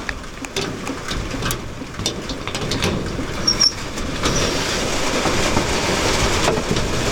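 Rain drumming on an aluminum roof, a dense patter like hail that grows louder about four seconds in, with scattered drip ticks before it.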